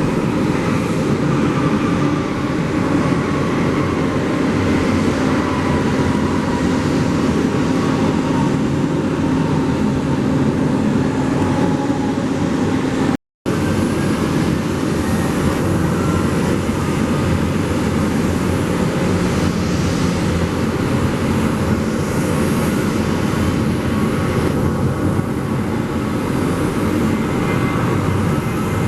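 Jet airliner engines running, a loud steady rush with faint high whining tones. The sound cuts out for a split second about halfway through, then the same kind of jet noise resumes.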